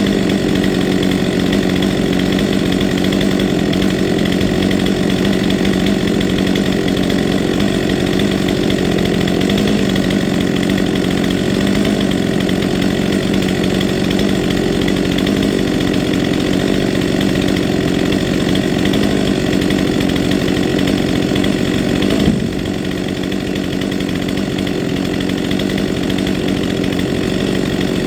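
Stihl chainsaw with a new chain running steadily at high revs while cutting wood. About three-quarters of the way through there is a short sharp knock, and the saw then runs slightly quieter.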